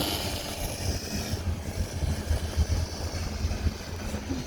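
Coleman minibike's small single-cylinder gas engine running steadily at low speed, a pulsing low rumble.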